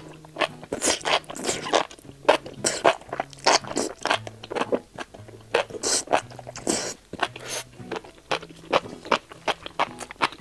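Close-miked chewing and biting of fried enoki mushrooms pulled off a skewer: many short, crisp, wet mouth clicks and smacks, irregular and close together.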